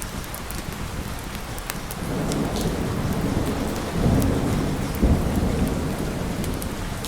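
Steady heavy rain with a roll of thunder that builds about two seconds in, is loudest around four and five seconds in, then dies away.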